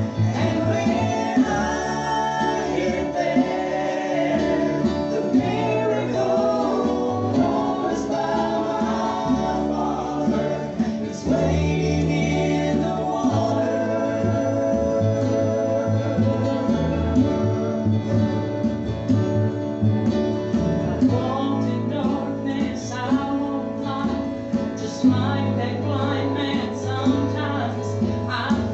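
A gospel vocal group singing with acoustic guitar accompaniment over a steady bass line.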